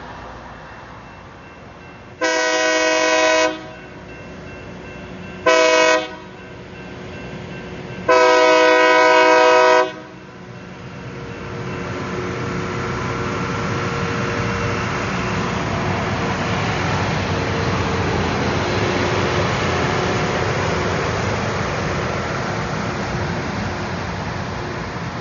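Loram rail grinder train's horn sounding for a grade crossing: a long blast, a short one and another long one, several tones at once. Then the train rolls past as a steady, loud rumble that builds about eleven seconds in.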